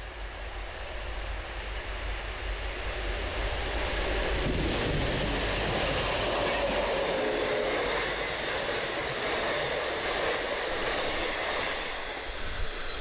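A diesel locomotive hauling passenger carriages passes at speed. Its engine and wheel noise builds as it comes closer, with a run of clicks from the wheels over rail joints as the carriages go by, then fades away near the end.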